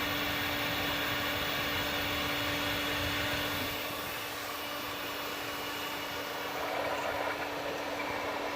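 Toyota Land Cruiser 1GR-FE V6 engine idling steadily, with the hiss of exhaust gas blowing out of a leak in the exhaust pipe below the manifold.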